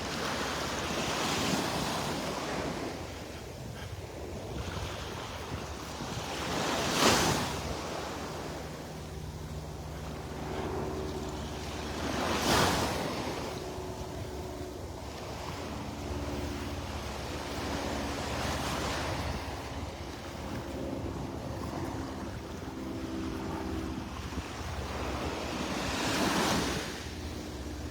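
Small waves washing in on the shore, each swell of surf rising and falling every five or six seconds, the one about seven seconds in the loudest. Wind rumbles on the microphone underneath.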